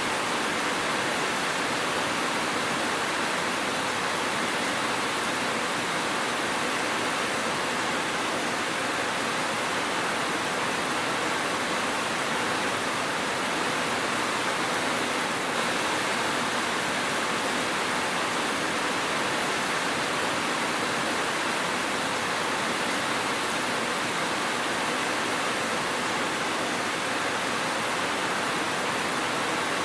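Steady heavy rain falling, an even hiss with no separate drops or thunder standing out.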